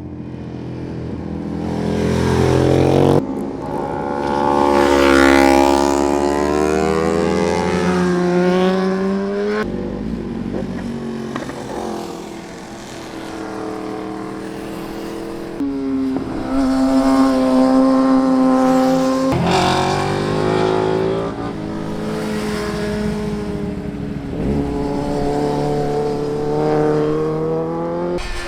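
Superbike engine pulling hard through the gears, its pitch climbing and then stepping abruptly as gears change, several times over, with some easing off between pulls.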